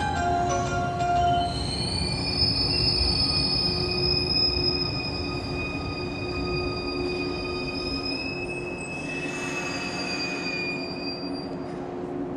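A 115 series electric train pulls into a station platform, its wheels rumbling and squealing with long, steady high-pitched whines as it brakes to a stop. The last few notes of a station arrival melody chime in the first second or so. A short hiss comes near the end.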